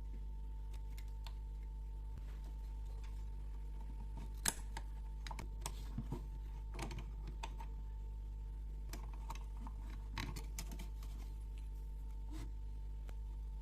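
Light clicks and taps of small metal parts and hand tools being handled during work on a Weber carburetor, with one sharper click about four and a half seconds in, over a steady electrical hum.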